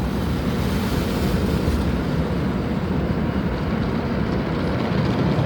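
Automatic tunnel car wash working over the car, heard from inside the cabin: a steady rushing noise of spray and brushes with a low rumble.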